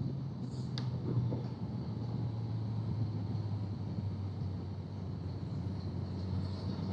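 Motorcycle engine running at a steady cruise with road and wind noise; the engine note drops a little about a second and a half in and then holds steady.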